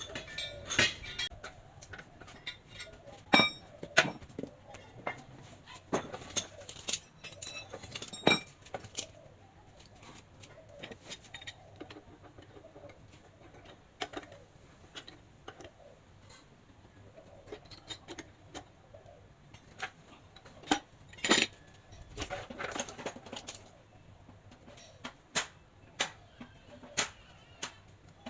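Small metal parts and hand tools clinking and knocking at irregular intervals, some strikes ringing briefly, as parts of a hand pallet truck's hydraulic pump are handled during repair.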